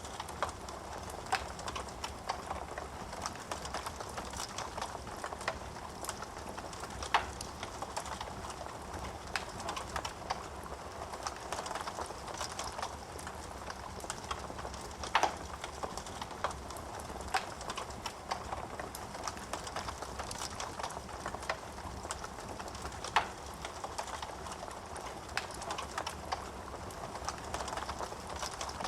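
Wood fire burning in a fireplace, crackling steadily with irregular sharp pops, a few of them louder than the rest.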